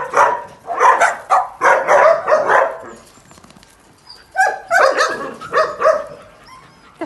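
Dogs barking repeatedly in quick bursts, breaking off for about a second midway before barking again.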